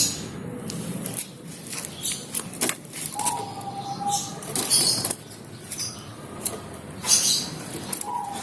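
An agitated caged long-tailed shrike (cendet) gives short, raspy bursts every couple of seconds, mixed with wing flutters and clicks. Twice a steady whistled note holds for about a second.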